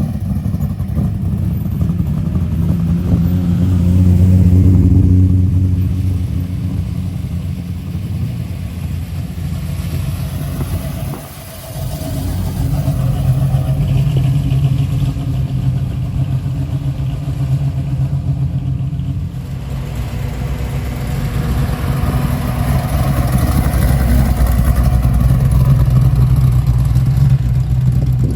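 Car engines running and pulling away, the revs rising and falling; the engine note swells about four seconds in and again over the last several seconds.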